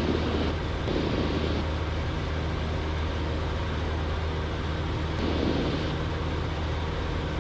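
Cessna 172's piston engine and propeller droning steadily in flight, heard inside the cabin, with brief patches of hiss about a second in and again about five seconds in.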